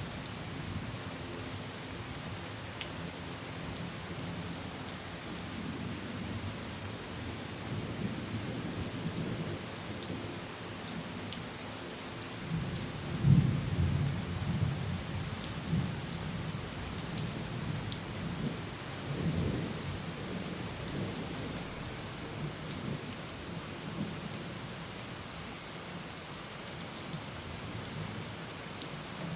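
Heavy rain falling steadily on a tin roof while thunder rumbles low underneath. A loud thunderclap comes a little before halfway through, and a second, softer rumble swells a few seconds later.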